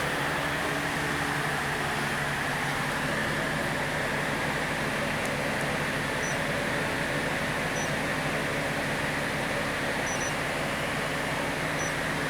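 Hyundai D4CB four-cylinder diesel engine running at a steady idle, an even hum with no change in speed.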